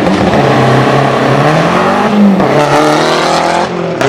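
Straight-piped Mazdaspeed 6's turbocharged 2.3-litre four-cylinder engine, loud, its exhaust note holding steady and then rising in pitch about halfway through as it revs up under acceleration.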